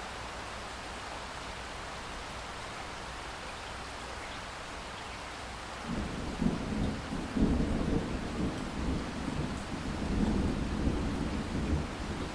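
Steady rain hiss; about halfway through, a deep rolling thunder rumble starts suddenly, swelling and ebbing as the rain goes on.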